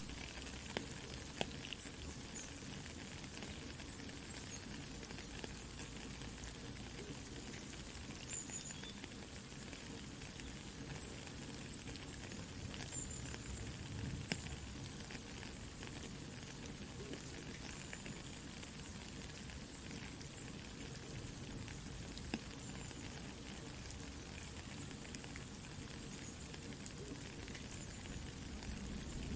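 Soft, steady rain with a campfire crackling, scattered small pops and snaps over an even hiss.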